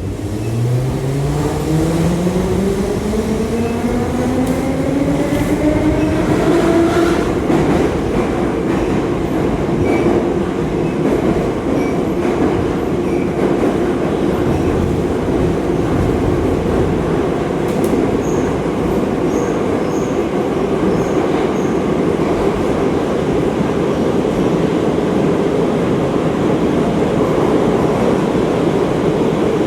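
Moscow Metro 81-717/714 Nomernoy train accelerating away from a station, heard from inside the car: the traction motors' whine rises steadily in pitch for about seven seconds, then settles into an even tone over the loud running noise of the train at speed.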